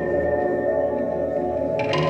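Dark ambient modular-synth music built with granular synthesis: layered sustained drones and held tones, with a new shimmering chime-like swell entering near the end.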